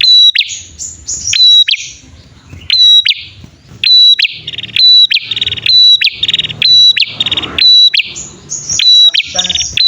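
Male and female prenjak (prinia) birds calling in a fast repeated sequence: sharp, high notes alternating with short buzzy, rattling phrases, about two a second.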